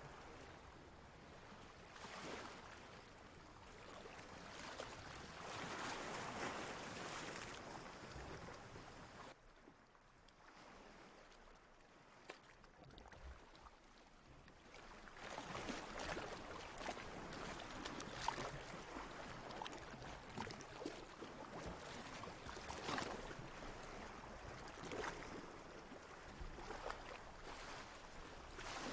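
Ocean water washing and lapping in slow swells, with a splashy crackle. It drops off abruptly about nine seconds in, then builds again with frequent small splashes.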